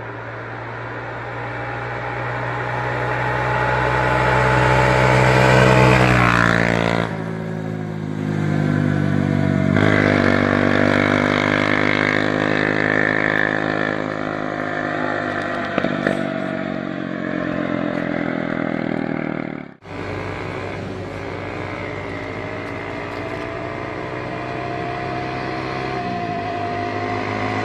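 Adly 300 XS quad's engine through an aftermarket Akrapovic-style exhaust, revving up under throttle, dropping off about seven seconds in, pulling up again, then running at a steadier pitch after a brief cut-out about twenty seconds in.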